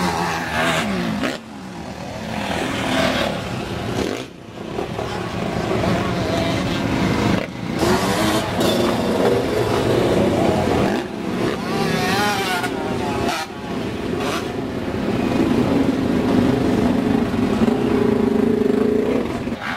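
Motocross bikes racing on the track, their engines revving up and down in pitch with repeated brief drops as riders shift and roll off the throttle. The sound is loudest in the second half.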